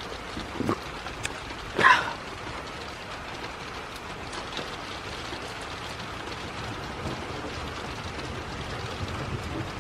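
Steady rain falling, with a short sharp knock about two seconds in that is the loudest sound, and a smaller one just before it.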